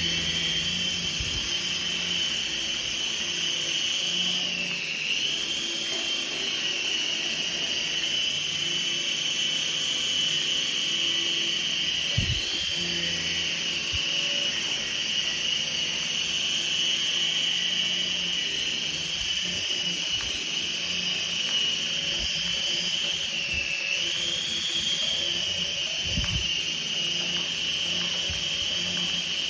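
Small electric remote-control helicopter's motor and rotor whining steadily at a high pitch. The pitch dips briefly and recovers twice, about five seconds in and again near the end.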